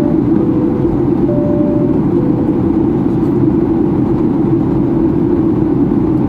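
Steady cabin roar of a Boeing 737-800 in descent: the CFM56 engines and airflow as heard inside the passenger cabin. Over it, in the first few seconds, a soft cabin chime of alternating high and low tones sounds.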